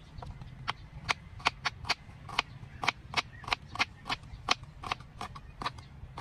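A quick run of sharp, irregular clicks, several a second, over a steady low hum.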